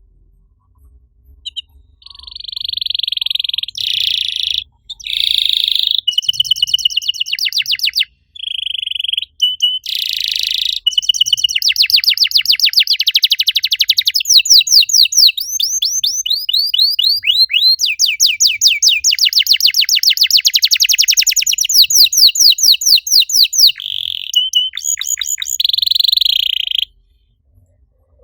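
Domestic canary singing a long song of buzzy rolls and fast trills of repeated downward-sliding notes, with short pauses between phrases. The song breaks off near the end.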